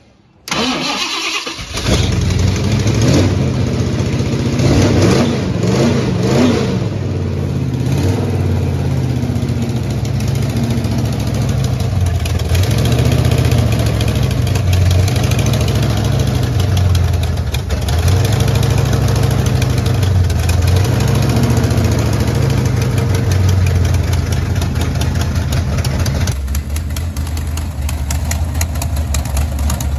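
A barn-find 1969 Mustang Mach 1's Ford FE V8, fed from a gas can, starts about a second and a half in and revs unevenly for several seconds. It then settles into a steady idle with a slight rhythmic rise and fall.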